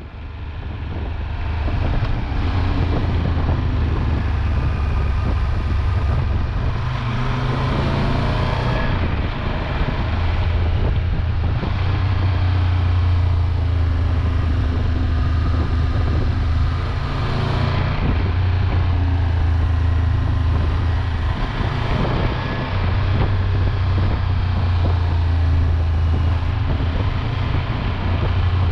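Triumph Tiger 1200 Rally Explorer's three-cylinder engine running on the move, its note rising and falling, with wind rushing over the microphone.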